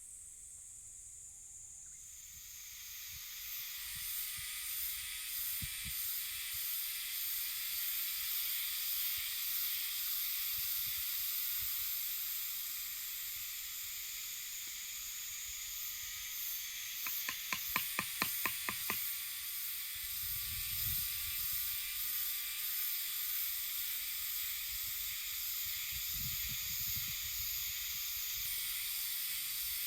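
Cicadas buzzing in a steady high-pitched drone, several insects overlapping and starting and stopping at different moments. A quick run of about a dozen sharp clicks comes around the middle.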